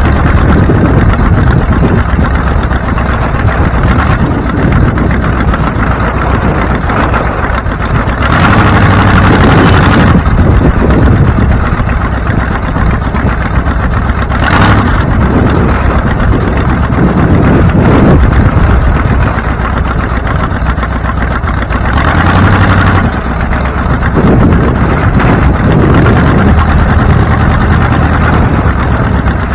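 Car engine and road noise while driving, steady and loud. Brief louder swells come about eight seconds in, around fourteen seconds, and again about twenty-two seconds in.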